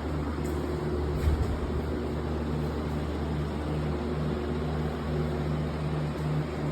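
Steady mechanical hum with an even rushing air hiss, like running fans or machinery, unchanging throughout.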